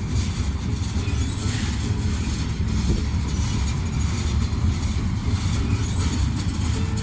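Freight train rolling past, a steady low rumble of the cars on the rails.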